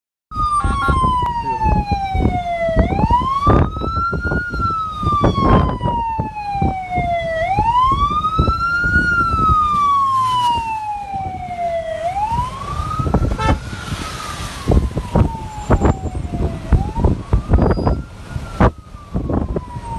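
Electronic siren wailing, its pitch rising and falling slowly in a cycle of about four and a half seconds, over a loud, irregular low rumble with knocks.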